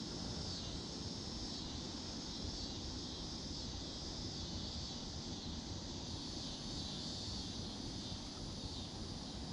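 Outdoor ambience: a steady high buzzing of insects, with a thin higher whine joining about two-thirds of the way through, over a low wind rumble on the microphone.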